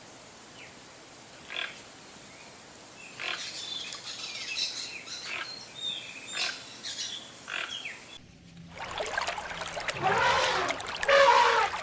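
Scattered short bird chirps over faint outdoor hiss for about eight seconds. After a brief break, a louder animal starts calling in long, rising-and-falling pitched calls.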